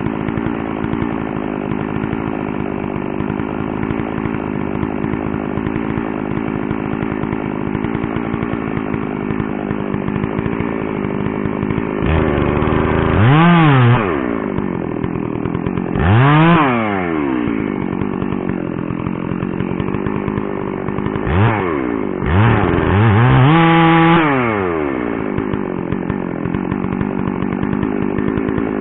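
Two-stroke chainsaw idling steadily, then revved up and let back down four times in the second half, the last rev held longest, before it drops back to idle.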